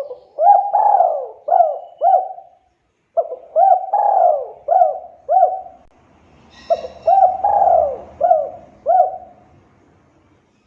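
Spotted dove cooing: three phrases, each a quick run of five or six coos that rise and fall in pitch.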